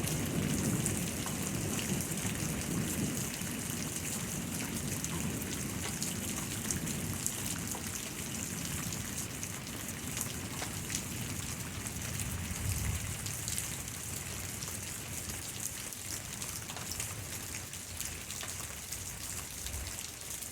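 Steady rain falling, with a low roll of thunder dying away in the first few seconds and another faint rumble about twelve seconds in.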